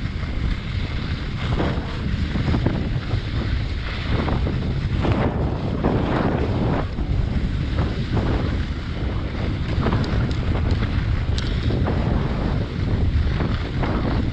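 Wind rushing over the microphone of a moving skier, with skis scraping the snow in repeated swishes as the skier turns.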